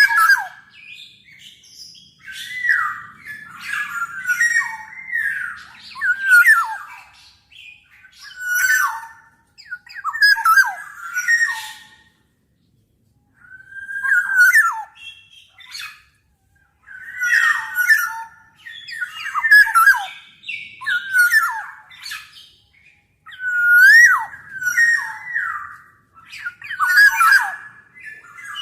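Black-naped oriole calling: phrase after phrase of fluty whistled notes sliding up and down, with short gaps between phrases.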